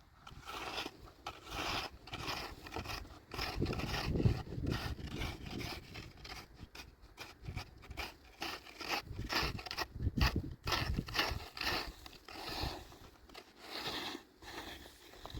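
Repeated irregular scraping and rustling strokes from close-up handwork, with a few heavier low thumps about four and ten seconds in.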